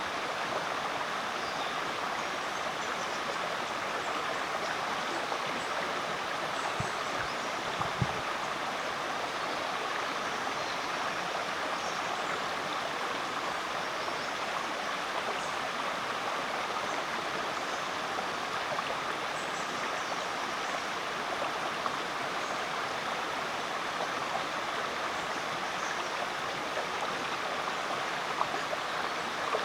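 Mudgeeraba Creek, a rainforest creek, flowing with a steady, even rush of water. There is a brief low thump about eight seconds in.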